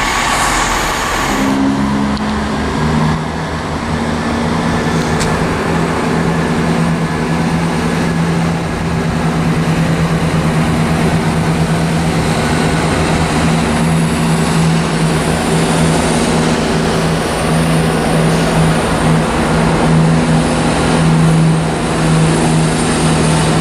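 Diesel multiple unit's underfloor engine running under power with a steady low drone as the train pulls out; the engine note changes about three seconds in.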